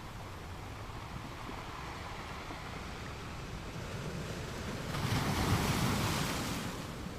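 Ocean surf: a steady wash of waves, with a wave breaking and rushing in about five seconds in, then fading away.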